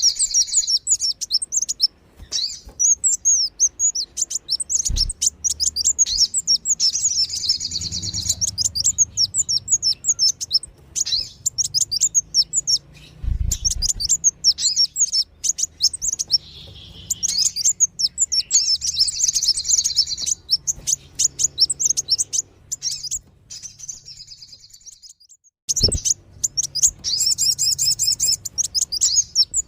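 Sunbirds (kolibri wulung and sogon) twittering in rapid, high-pitched chirps, in long bursts with short breaks: a lure call for drawing wild sunbirds in. A few brief low thumps come through, about five seconds in, near the middle, and again near the end.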